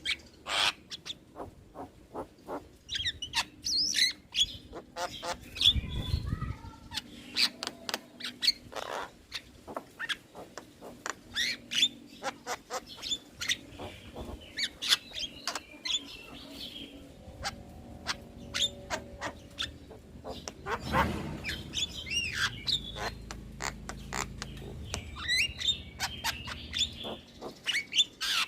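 Javan myna (jalak kebo) singing: a fast, irregular string of sharp clicks and chirps mixed with short warbled whistles. Two brief low thuds come about six and twenty-one seconds in.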